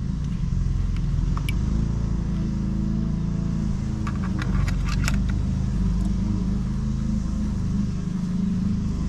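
Steady low drone of an engine running, with a few small clicks and rattles of handled parts about a second and a half in and again around four to five seconds in.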